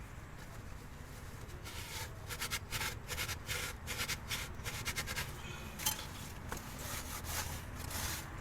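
A run of short scraping strokes, about three a second, from about a second and a half in until just past the middle, then a few single scrapes, over a steady low hum.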